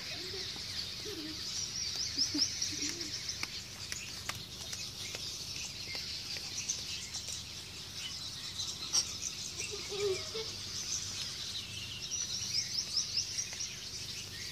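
Small birds chirping and twittering all through, with quick trills of rapid chirps about two seconds in and again near the end.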